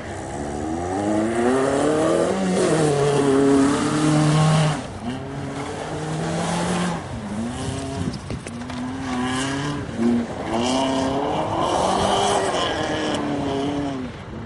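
Rally car engine revving hard, climbing in pitch and dropping back again and again as it shifts gear and lifts off. It is loudest twice, about two to five seconds in and again near the end, with a hiss of noise underneath.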